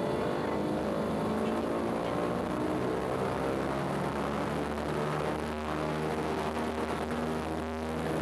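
Douglas DC-3's twin radial piston engines and propellers droning, heard from inside the passenger cabin. The pitch rises slightly over the first couple of seconds, then holds steady.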